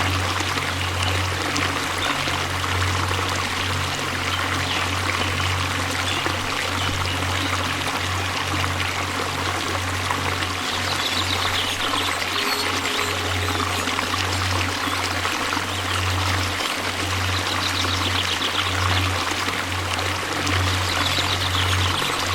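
Waterfall: steady rushing water with a deep low rumble underneath, unbroken throughout.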